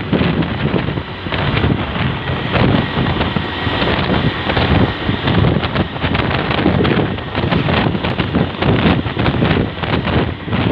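Wind buffeting the microphone over the running noise of a vehicle, loud and gusting.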